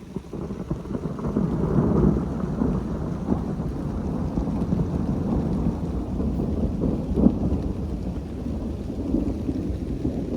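Rolling thunder: a low rumble that sets in suddenly, builds over the first two seconds and keeps rumbling, with a few sharper claps within it.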